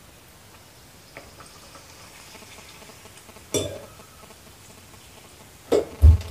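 Papadam deep-frying in a pan of hot oil with a faint, steady sizzle. A metal spoon clinks against the aluminium pan once about three and a half seconds in, and a couple of louder thumps come near the end.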